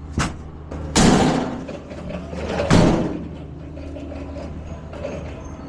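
Two loud bangs, about a second in and again near three seconds, over a steady low engine hum.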